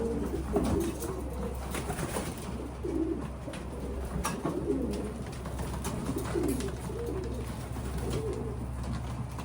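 Several racing pigeons cooing, their coos overlapping, with a few sharp clicks among them.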